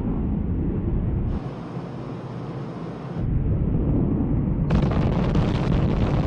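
Deep, rumbling roar of the B-1 Lancer's four afterburning turbofan jet engines, continuing through several spliced clips whose sound changes abruptly about a second in, near the middle and about two-thirds through.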